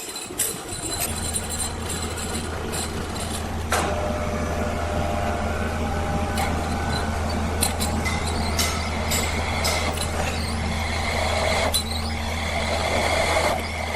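An engine running steadily, starting about a second in, with scattered metallic clanks and knocks of machinery over it.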